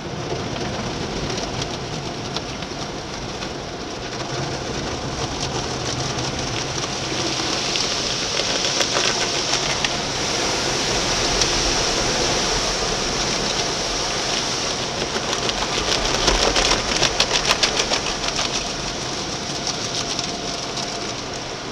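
Water spray drumming on a car's body as it goes through an automatic car wash, a steady wash noise that builds toward the middle, with a run of rapid, heavier patters about three quarters of the way through.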